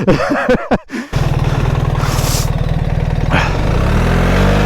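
BMW R 1300 GS Adventure's boxer-twin engine: a brief vocal sound, then the engine cuts in suddenly about a second in and runs steadily. From about three seconds in, the revs rise as the bike pulls away.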